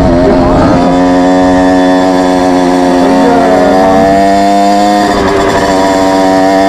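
Small moped engine running at steady high revs, its pitch holding nearly level with slight dips.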